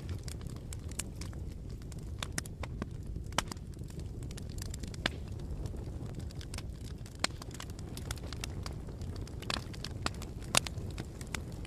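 Wood fire burning: a steady low rumble of the flames with irregular sharp crackles and pops.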